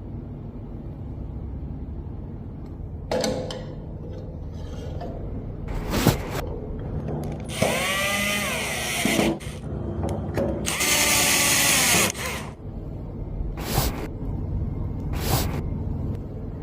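A handheld power tool runs twice, each run lasting about a second and a half, its pitch rising and then falling. Sharp clicks and knocks of parts being handled come between the runs, over a steady low hum.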